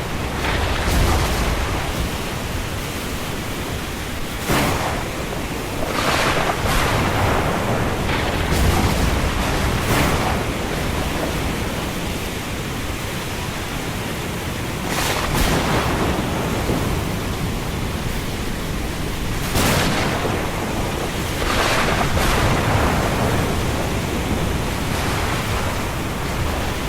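Thunderstorm: a steady rush of wind and rain with low rumbling thunder underneath, and brief hissing swells every few seconds.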